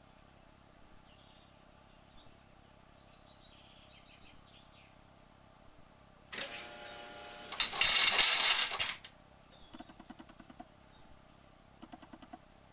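Homemade automatic cat feeder starting up: a small motor whirs, then a loud rattling clatter lasts about a second and a half, likely dry food being dispensed, followed by a few faint ticks.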